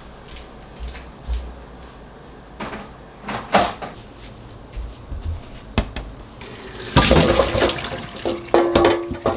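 Water running from a tap into a kitchen sink, coming on strongly about seven seconds in, after a few light clinks and knocks.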